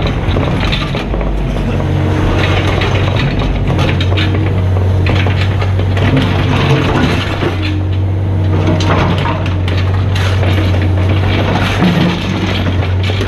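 Mini excavator's diesel engine running steadily, with irregular scraping and clattering of the machine at work.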